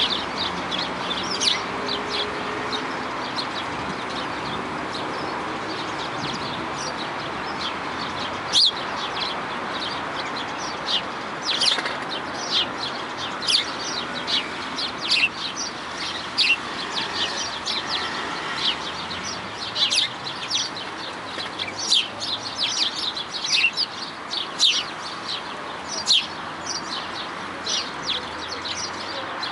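Birds calling: many short, sharp, high-pitched chirps, some in quick clusters and more frequent in the second half, over a steady background noise.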